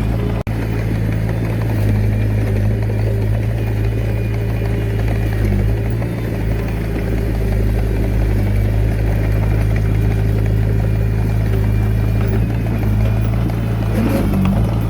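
Diesel engine of a Komatsu D21A mini bulldozer running steadily at an even working speed.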